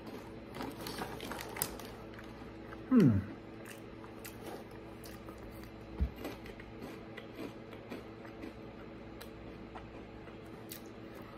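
Crunchy cheese crackers (Buffalo Wing Cheez-Its) being chewed with the mouth closed, small crisp crunches scattered throughout over a faint steady hum. About three seconds in comes a short sound falling in pitch, the loudest moment, and a low thump about six seconds in.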